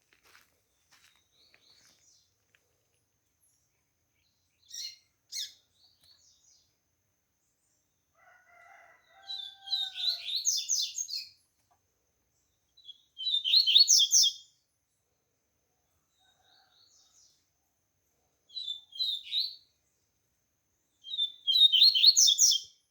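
Caged Sporophila seedeater singing in short high bursts of rapid notes, five phrases separated by pauses of a few seconds. The bird is coming out of its moult and just starting to open its song well. A rooster crows faintly in the background about halfway through.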